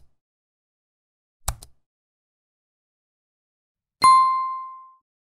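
Two short mouse-style clicks, then a single bright chime-like ding about four seconds in that rings and fades over about a second: a subscribe-button and notification-bell sound effect.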